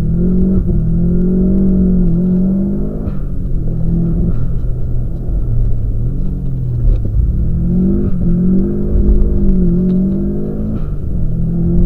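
Subaru flat-four engine pulling hard, its revs climbing and dropping twice as the car is driven through corners and straights. A heavy low rumble runs underneath.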